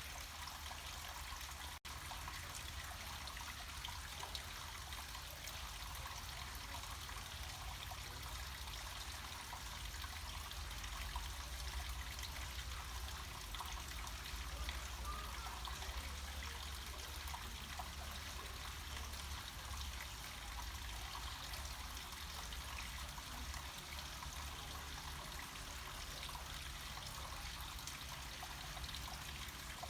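Small mountain waterfall: water trickling and splashing steadily down rock, with a low rumble underneath. A momentary dropout about two seconds in.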